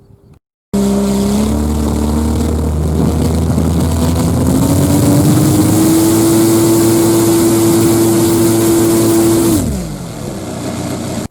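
Desert Aircraft DA-200 four-cylinder two-stroke petrol engine turning a three-blade propeller on a large model aircraft, exhausting through stainless canister mufflers. It comes in suddenly and loud about a second in, its pitch climbs over a few seconds and holds steady at high speed, then drops as the throttle is pulled back near the end.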